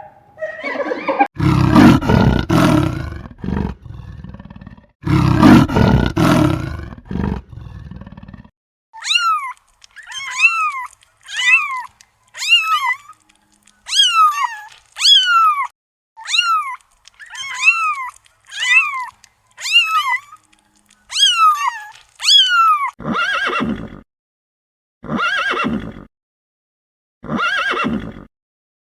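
A run of farm animal calls. Loud, harsh calls fill the first eight seconds. About a dozen short, high, arching calls follow at roughly one a second, then four short coarse calls near the end.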